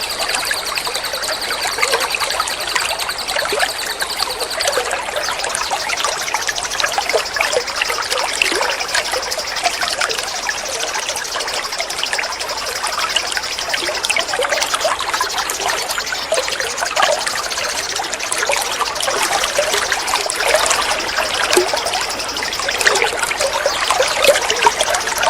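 Water trickling and flowing steadily. A high, continuous pulsed trill runs over it and shifts a little higher about five seconds in.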